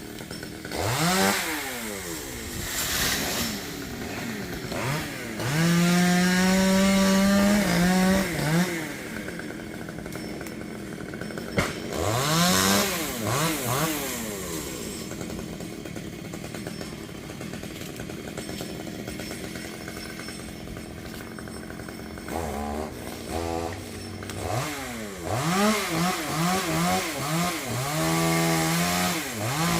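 Chainsaw engine repeatedly revving up to high speed and falling back to idle, held at full throttle for about two seconds once, with a quick run of throttle blips near the end.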